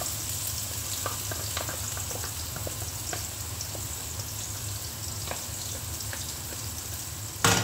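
Blended chili spice paste sizzling in hot oil in a wok, a steady frying hiss with scattered small crackles and ticks. One sharp knock just before the end.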